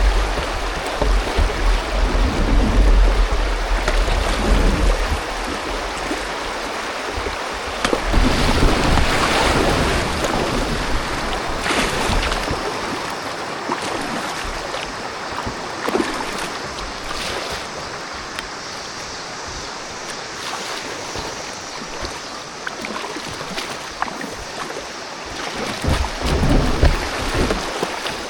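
Rushing river water heard from a kayak, a steady wash of water noise with a few short splashes. Wind buffets the microphone with a low rumble through roughly the first half.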